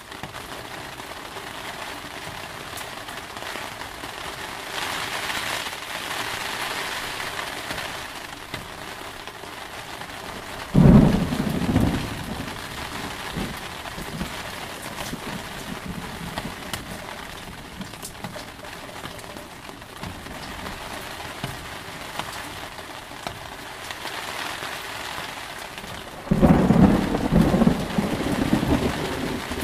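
Steady heavy rain with two claps of thunder: a short sharp one about a third of the way in, and a longer rolling one near the end.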